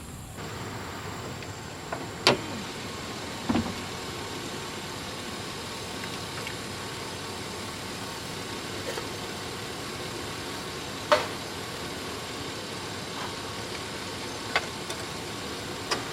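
A vehicle engine running steadily, with a few sharp clicks over it, the loudest about two and eleven seconds in.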